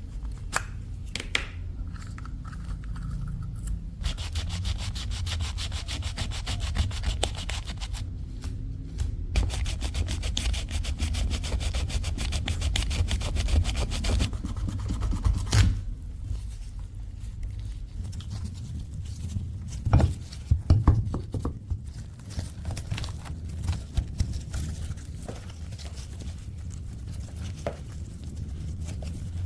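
Rubbing and scraping of hand work on a rusty cleaver, in several segments that change abruptly, including a long stretch of rapid, even strokes and a few knocks later on.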